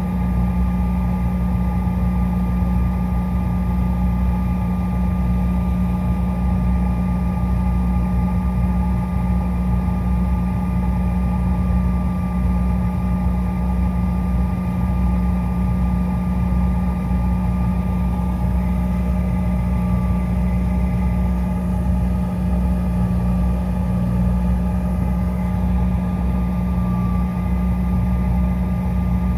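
CRJ 900's rear-mounted GE CF34 turbofan engines running steadily, heard from inside the cabin: a constant low hum with a thin, steady whine above it.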